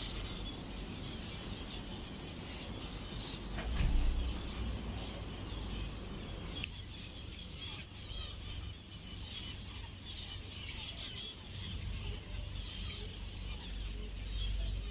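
Small ornamental cage birds chirping in an aviary: short, high chirps repeating about once a second, from several birds at once.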